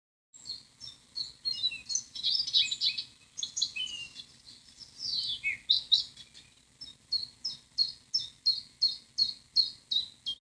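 Birds calling: a dense jumble of high chirps and twitters, with one downward-sliding note about halfway through. In the second half this gives way to a steady run of sharp chirps, about three a second.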